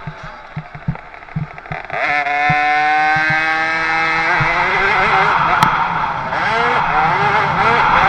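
50cc two-stroke motocross bike engine revving. It climbs sharply to high revs about two seconds in and holds a steady high whine, then rises and falls in pitch repeatedly in the second half. A few dull knocks come before the revving, and there is a sharp click midway.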